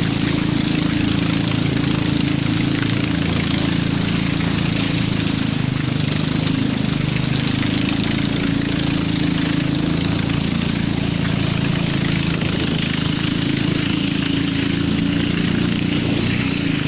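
A small engine running steadily at an even speed, a constant low drone with no change in pitch or breaks.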